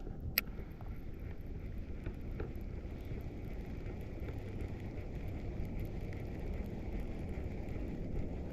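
Steady low rumble of wind buffeting the microphone, with one sharp click about half a second in.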